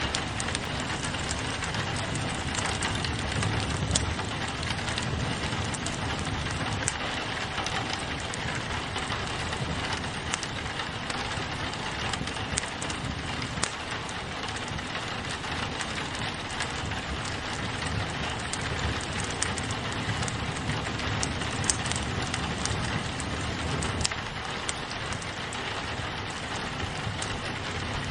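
Steady rain on a window mixed with a crackling fireplace: an even hiss with scattered sharp pops and clicks.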